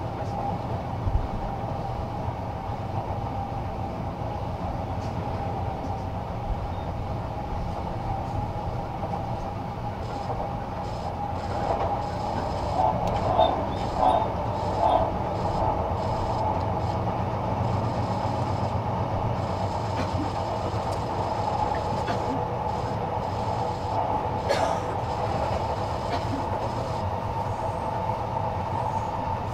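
Inside the cabin of a Sotetsu Series 20000 electric train running at speed between stations: a steady rumble of wheels on rail under a steady hum from the running gear, with a few louder rattles about halfway through.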